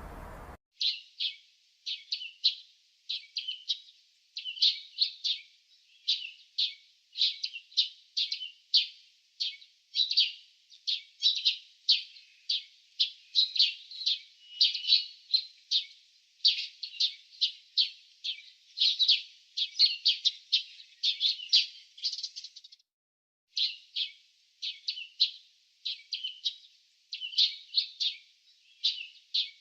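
Small birds chirping, a quick run of short high chirps about two or three a second, with a brief pause about three-quarters of the way through.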